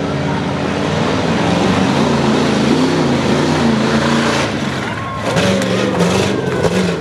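Tuff truck's engine running hard and revving, its pitch rising and falling as the truck works over the course, with a few sharp knocks about five seconds in.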